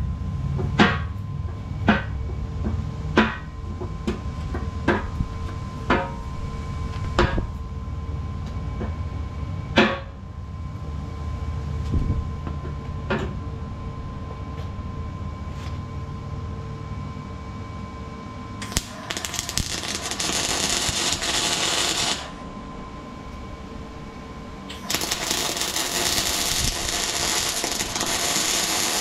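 Hammer blows on a steel cutting edge, about one a second for some ten seconds and then once more, over a low steady rumble. These are typical of the plate being knocked down where it does not sit flat in the middle. Later come two stretches of loud, steady hiss a few seconds each, from a source that cannot be named.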